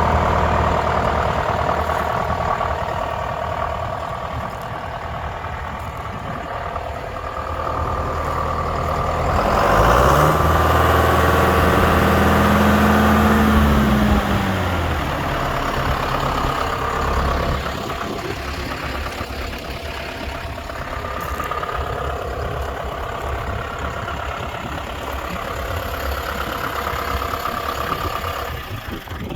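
John Deere 6420 tractor's diesel engine idling. About ten seconds in it is revved up, held at higher speed for a few seconds, then brought back down to idle. It idles on to the end.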